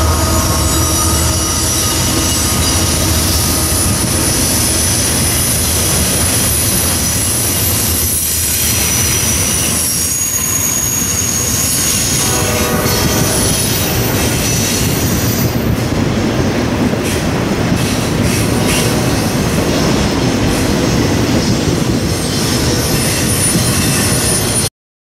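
Double-stack container freight train of well cars rolling past, a steady loud rumble with wheels squealing in high, drawn-out tones. The sound cuts off suddenly near the end.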